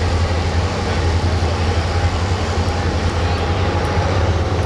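Light-limited pro stock pulling tractor's diesel engine running hard under load, a loud, steady drone with no let-up.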